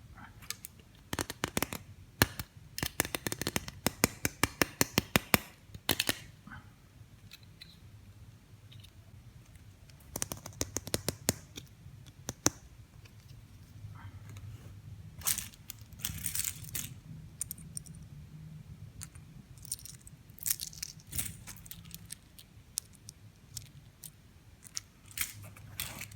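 Plastic toy pieces and packaging being handled: a quick run of sharp clicks and taps over the first six seconds, then scattered clicks and short rustles.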